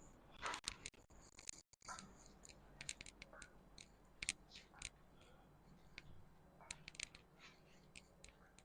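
Near silence: room tone with faint, scattered short clicks and rustles.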